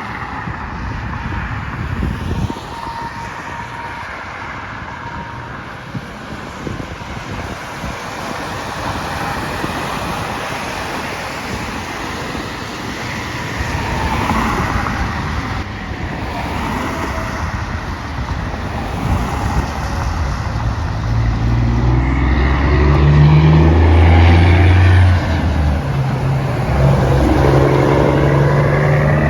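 Road traffic going past, with wind buffeting the microphone. From about two-thirds of the way in, a heavy vehicle's engine runs close by, low and loud, its pitch stepping up and down.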